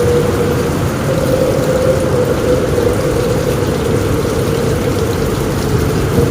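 Heavy rain on a roof with strong wind, a steady dense rush with a deep low rumble beneath it and a faint wavering howl held at one pitch.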